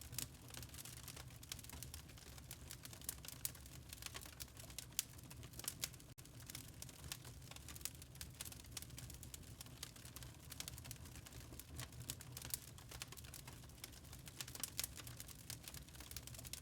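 Log fire crackling in a fireplace: irregular sharp pops and snaps over a low steady rumble.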